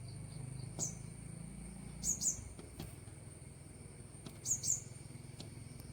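Small bird chirping: short, high chirps that fall in pitch, one about a second in, then a pair about two seconds in and another pair around four and a half seconds, over a faint low hum.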